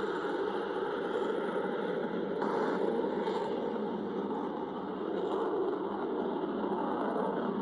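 Aircraft engine noise from display aircraft flying overhead: a steady rushing sound that swells slightly a few seconds in.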